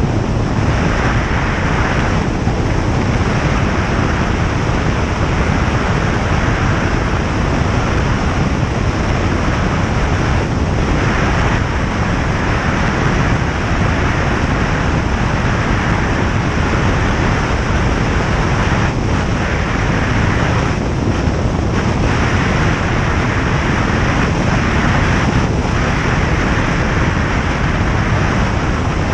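Single-engine light aircraft in flight, its piston engine and propeller running steadily with a dense, unchanging noise.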